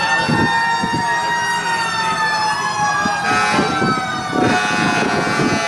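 Several fire engine sirens sounding at once. Their wailing pitches slide up and down and cross over each other, while one held tone slowly sinks, and a few short noisy blasts cut in.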